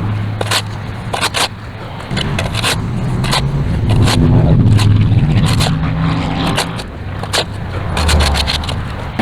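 Shovel repeatedly scraping and chopping across a concrete sidewalk, about one or two irregular strokes a second. A vehicle passes, loudest around the middle.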